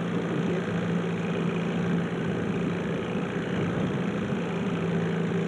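A boat motor idling with a steady, even hum.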